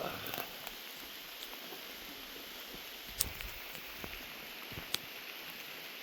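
Heavy rain falling with a steady hiss, and a couple of sharp drop taps about three and five seconds in.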